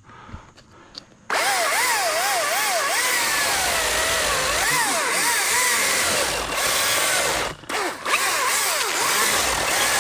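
ECHO DCS-2500T battery-powered top-handle chainsaw cutting the face cut (felling notch) into a blackjack oak. It starts about a second in, its whine wavering up and down under load, and drops out briefly near the end before cutting again.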